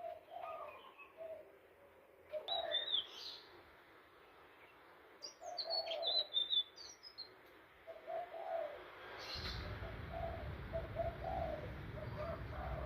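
Indigo flycatcher (sikatan ninon) song: short high whistled phrases in two bursts, over repeated low cooing notes. A low steady rumble comes in about two-thirds of the way through.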